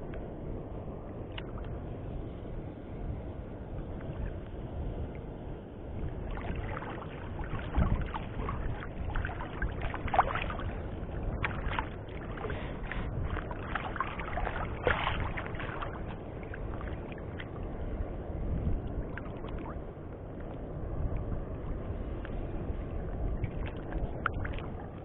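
Steady rumble of wind and water lapping around a small boat, with a run of scattered knocks and clicks through the middle stretch.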